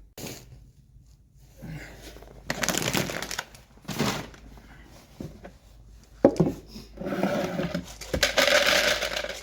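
Wet cat food being opened and dished out: crinkling and scraping handling noises, with a sharp knock about six seconds in and a longer, louder scraping stretch near the end.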